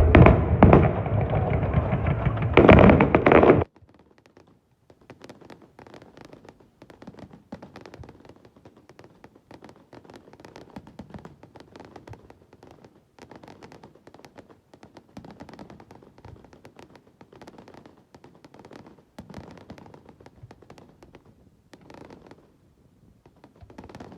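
Fireworks: loud bangs for the first few seconds, cutting off abruptly, followed by faint, scattered crackling.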